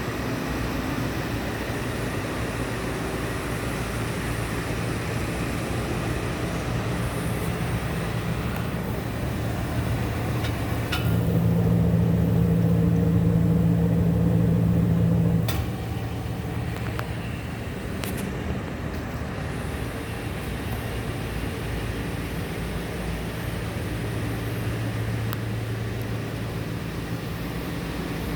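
Ford 5.4L V8 engine of a 2008 F-250 Super Duty idling steadily, then held at a higher speed and louder for about four seconds near the middle before dropping back to idle.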